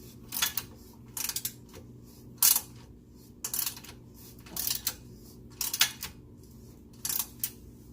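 Ratchet wrench clicking in short irregular bursts as it works a bolt extractor socket on a seized exhaust Y-pipe bolt that is not coming out.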